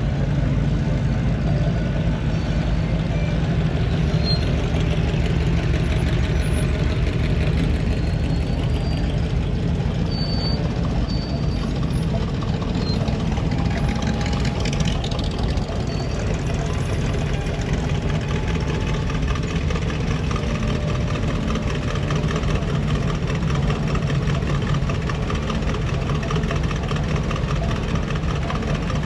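Car engine idling steadily, with a low, rapid exhaust beat.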